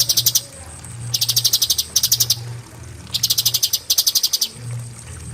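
Cucak cungkok songbird singing its rapid 'tembakan' bursts: four short, fast, high-pitched trills of evenly repeated notes, each about half a second long, with short gaps between them. A steady low hum runs underneath.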